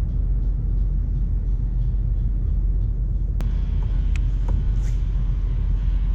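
Steady low rumble, with one sharp click about three and a half seconds in and a few faint ticks after it.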